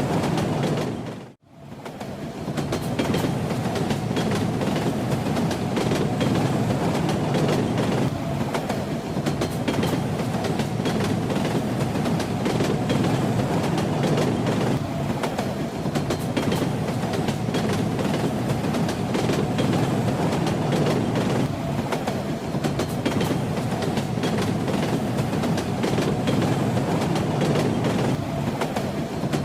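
A train running on its rails: a steady rumble with rattling wheel clatter. About a second and a half in the sound briefly fades out and comes back.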